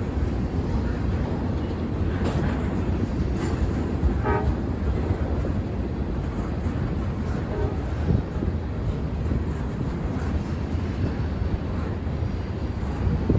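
A freight train rolling past, the railcars making a steady low rumble on the track, with a few brief higher-pitched tones over it, the clearest about four seconds in.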